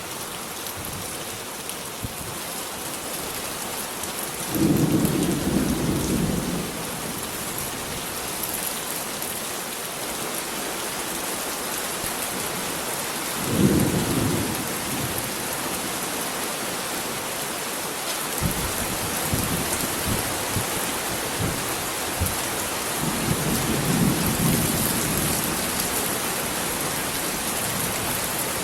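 Heavy rain falling steadily, with three low rumbles of thunder: one about five seconds in, a shorter, sharper one near the middle, and a longer one near the end.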